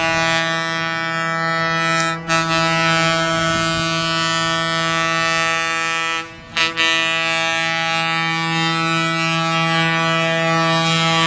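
Train horn sounding one steady low note in long held blasts, with two short breaks, about two seconds in and about six and a half seconds in.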